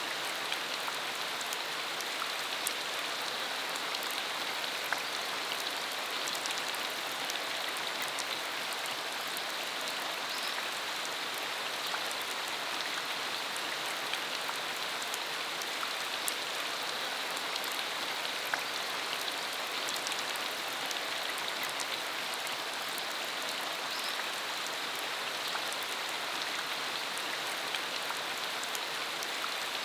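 Steady rain falling on a dirt country road, an even hiss with many small individual drop clicks scattered through it.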